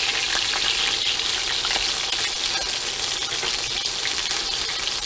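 Breaded tofu sticks frying in hot, foaming oil in a stainless steel skillet: a steady sizzle full of fine crackles.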